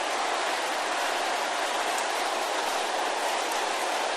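A congregation praying aloud all at once: a steady din of many overlapping voices in which no single speaker stands out.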